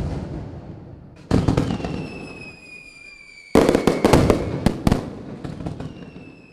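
Fireworks going off: a loud bang that fades away, another about a second in, then a rapid string of sharp bangs about three and a half seconds in. A slowly falling whistle sounds through the middle, and another starts near the end.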